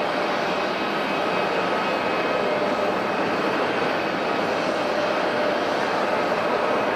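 Airliner engines running with a steady rushing noise and a faint, steady whine, with no clear rise or fall in level.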